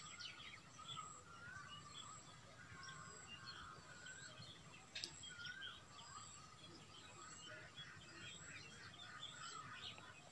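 Near silence with faint bird chirps and twitters throughout, short calls overlapping one another.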